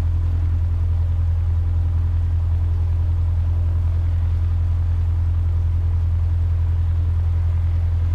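Cessna 150's four-cylinder Continental O-200 engine idling with a steady, low drone, heard from inside the cockpit.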